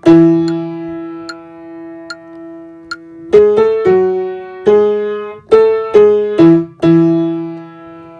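Piano playing a single-line melody, the alto part of a choral hymn, one note at a time: a long held note, then a run of eight quicker notes from about three seconds in, ending on another long held note. Faint even ticks sound about every 0.8 seconds during the first held note.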